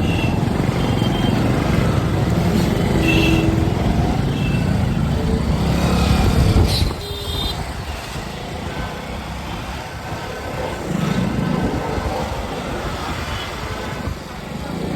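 Motorcycle running along on a ride, with engine and road noise. The loud low rumble drops suddenly about seven seconds in and stays quieter after that.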